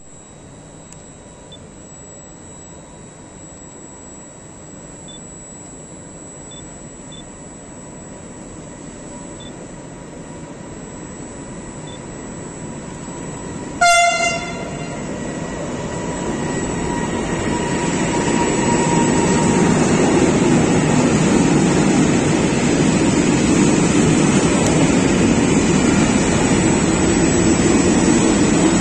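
An electric locomotive and its freight train of covered hopper wagons approach and run past close by, the rumble of wheels on rail building steadily and then holding loud. About halfway through, the locomotive sounds one short horn blast.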